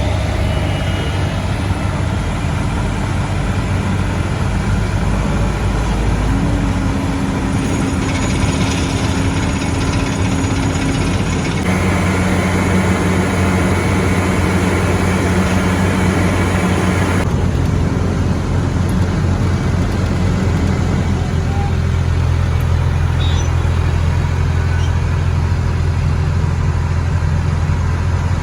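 Engines of heavy road-construction machinery running steadily under a low hum, the engine tone shifting abruptly a few times.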